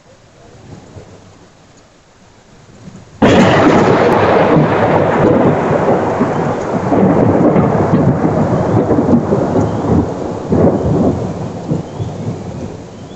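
Thunder from a close lightning strike: a sudden sharp crack about three seconds in, followed by a long, loud rumble that slowly fades. Faint rain before the crack.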